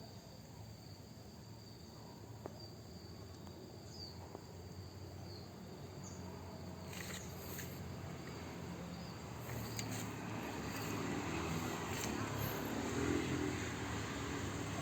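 Outdoor background of insects trilling steadily, with a low rushing noise that grows louder about ten seconds in and a few faint clicks.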